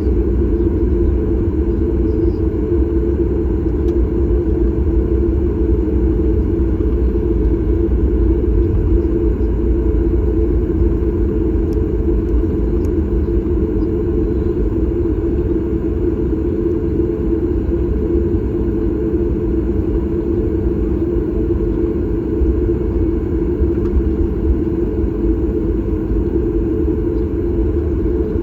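Cabin noise inside a Boeing 737 MAX 8: a steady low drone of the engines and airflow, with a faint hum running through it.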